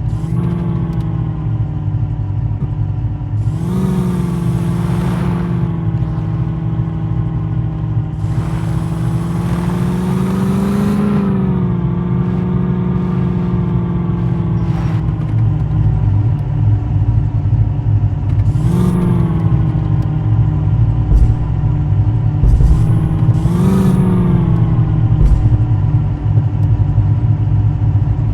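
Jeep engine running steadily, revved up about five times, its pitch rising briefly each time and then settling back.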